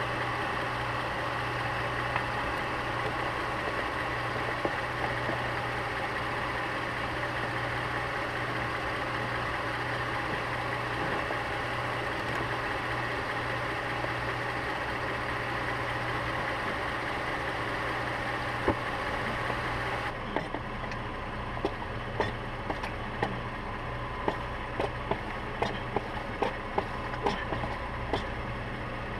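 Mercedes-Benz GLK 350's V6 engine idling steadily, a low hum. About two-thirds of the way in, a higher hiss drops away and a string of sharp ticks starts, about one or two a second.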